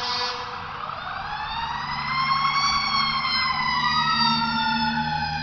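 Fire engine siren wailing in one slow rise and fall, with a second siren tone sliding up over it from about halfway through. A horn blast cuts off in the first half second, and the truck's engine rumbles steadily underneath.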